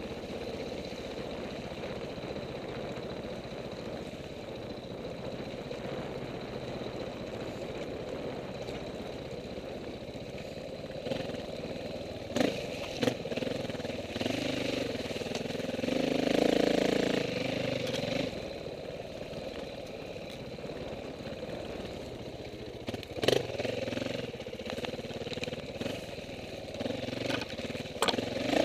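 Off-road dirt bike engine running at low revs, with louder rises in throttle around the middle and near the end, and a few sharp knocks.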